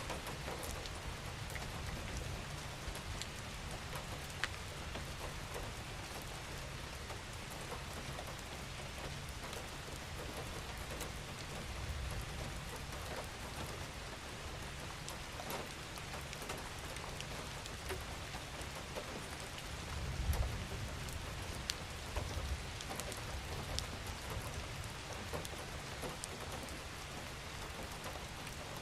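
Gentle, steady rain falling, with individual drops ticking through the hiss. A low rumble swells briefly about twenty seconds in.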